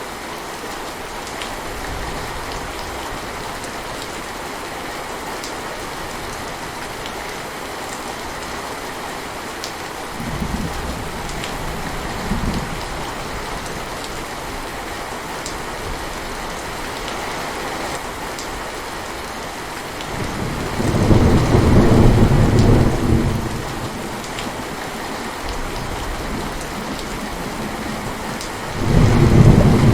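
Heavy rain falling steadily with thunder: small rumbles about ten seconds in, a long loud roll of thunder a little past the middle, and another rumble starting near the end.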